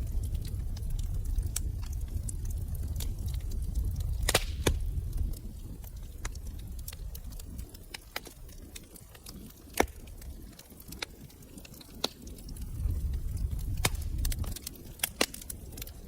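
Fire in a fireplace crackling, with sharp pops scattered throughout, the loudest about four, ten and fifteen seconds in. Beneath them runs a low rumble of the flames that fades about a third of the way in and swells again near the end.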